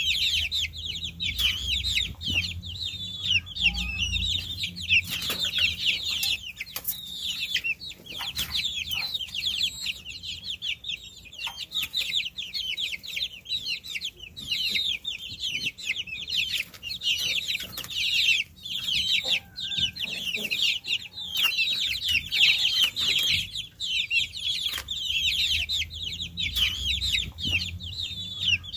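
A group of baby chicks peeping together: many high-pitched, overlapping chirps with no break.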